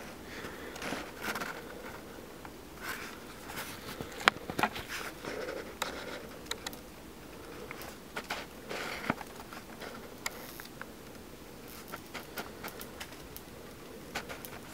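Irregular sharp crackles and snaps, like something being electrocuted, scattered unevenly with louder snaps here and there. It is taken for a bug zapper.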